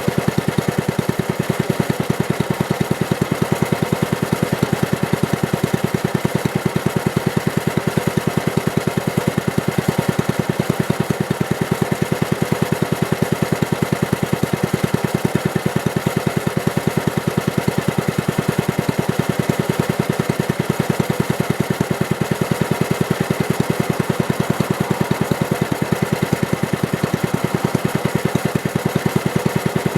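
Mitsubishi Meiki G5L-3A air-cooled kerosene engine running steadily at an even speed, with a fast, regular firing beat.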